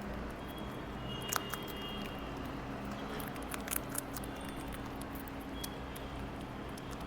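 Rabbits eating: a patter of small, crisp crunching clicks as they chew, loudest about a second in and again near four seconds in, over a steady low hum.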